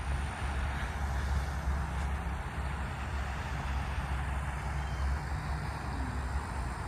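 Steady outdoor background noise: a low rumble with a hiss over it, no distinct events.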